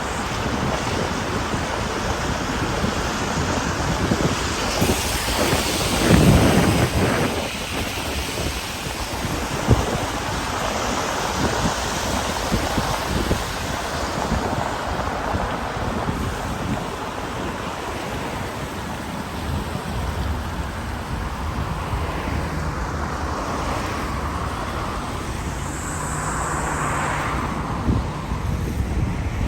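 Rainy street ambience: a steady noisy wash of rain and passing traffic, with wind buffeting the microphone. A louder swell comes about six seconds in.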